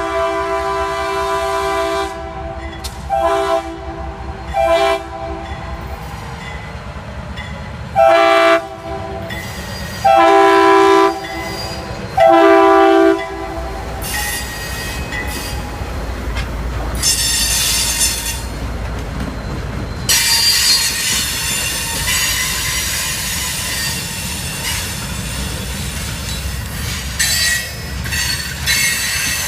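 Diesel freight locomotive's air horn sounding a chord in a series of blasts, two short and then three longer ones. The train then passes close by, its wheels rumbling and clacking over the rail joints, with high metallic wheel squeal.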